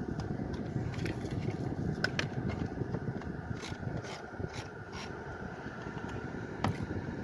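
Steady low rumble from the Volkswagen Tiguan as it sits with the climate control switched on, with a few short clicks and light scrapes over it.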